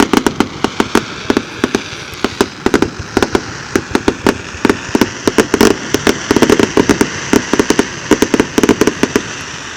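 Fireworks going off in a rapid, continuous barrage of sharp bangs and crackles, several a second, over a steady hiss, beginning to die away at the very end.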